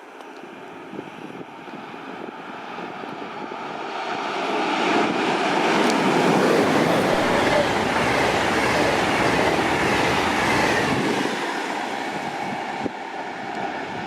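A train passing through the station: the rumble of wheels on rails builds for about five seconds, stays loud through the middle, then fades as it moves off.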